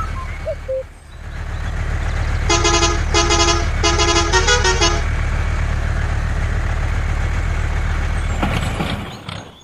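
Miniature DIY tractor's motor running with a steady low hum, while a horn toots three times and then gives a few quicker short toots a few seconds in. The engine sound cuts off shortly before the end.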